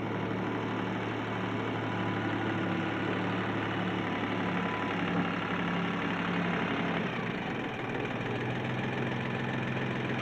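Ford 1710 compact tractor's three-cylinder diesel engine running steadily, its note shifting a little about eight seconds in.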